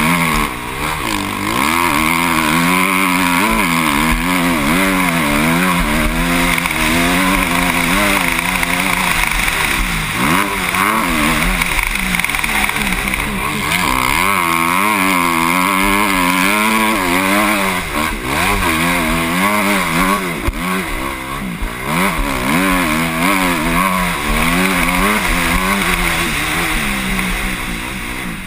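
Motocross bike engine heard from the rider's helmet, revving up and dropping back again and again as the rider works the throttle through the course, with wind rush on the microphone.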